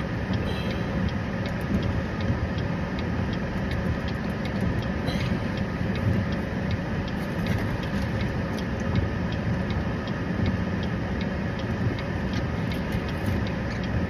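A steady low rumble like an idling vehicle, with an even ticking about twice a second running over it.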